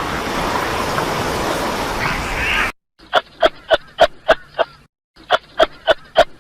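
A duck quacking in two quick runs of about six quacks each, roughly three a second, after a stretch of noisy rushing sound that cuts off suddenly.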